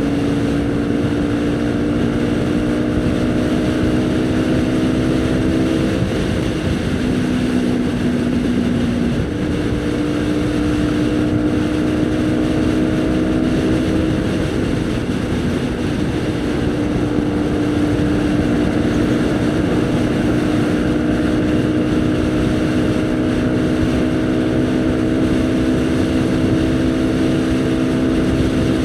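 Haojue NK150 motorcycle's single-cylinder engine running under way at a steady cruise, its note climbing slowly and dipping and picking up again about six and fourteen seconds in, with wind rushing over the microphone.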